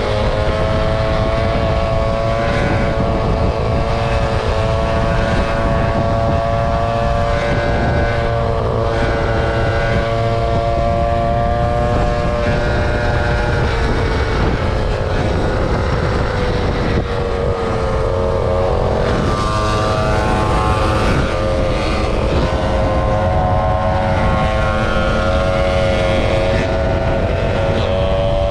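Motor scooter engine running steadily at cruising speed while riding. The engine note dips a little just past the middle and climbs back again.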